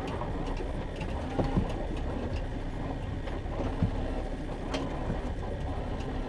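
Fishing boat's motor running steadily at trolling speed, a low even rumble with wind and water noise and a few light clicks.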